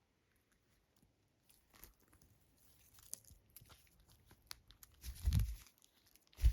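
A pet parrot chewing and biting at something, with small crunches and clicks. Two dull thumps come near the end, the second the louder.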